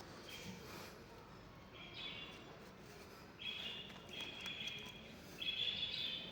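Birds chirping in repeated short bursts of high calls, louder and more frequent in the second half, over faint background noise.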